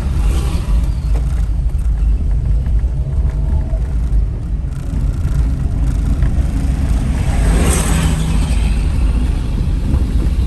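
Car driving, with a steady low rumble of road and engine noise; a louder swell of noise comes through about eight seconds in.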